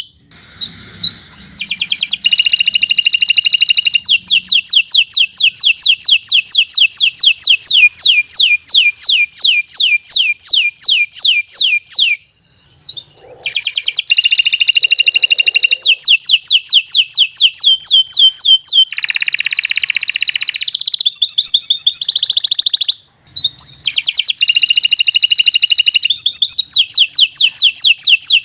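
Domestic canary singing a long, loud song of rapid trills of repeated down-slurred notes, about six a second, with brief pauses about 12 and 23 seconds in.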